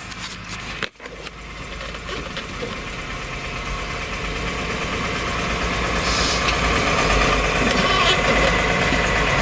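Old dump truck's engine running as the truck drives off loaded with dirt, growing gradually louder, after a brief break about a second in.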